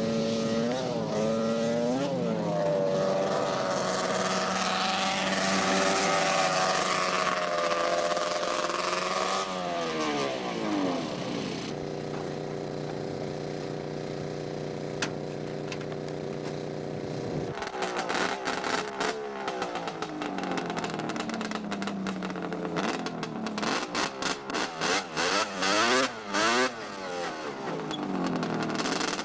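Snowmobile engine revving: a few quick throttle blips, then a long climb in pitch that falls back down, a steady idle in the middle, and a run of rapid, choppy throttle blips near the end.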